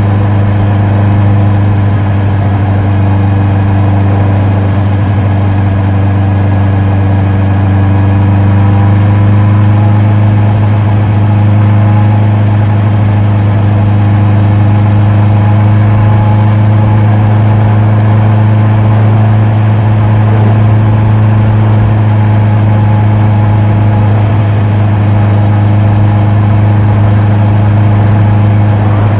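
Honda CB650R's inline-four engine and exhaust running at a constant engine speed, a loud, even drone with no revving.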